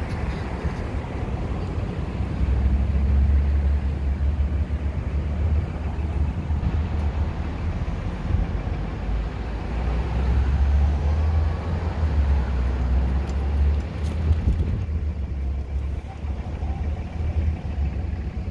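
Busy road traffic close by: a steady rumble of cars that swells twice as vehicles pass.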